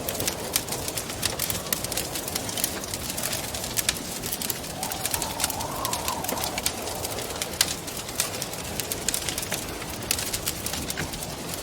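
Wood fire crackling with frequent sharp pops over a steady rush of wind. About five seconds in, the wind howls in a wavering tone that rises and falls for a couple of seconds.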